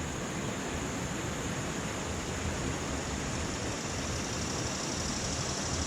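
Steady rush of river water flowing below a dam, an even noise with no distinct events.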